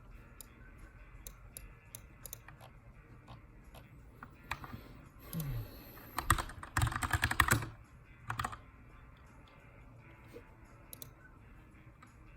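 Keychron K2 aluminium mechanical keyboard with brown switches being typed on: scattered single key clicks, then a fast burst of typing just past the middle and a short flurry soon after.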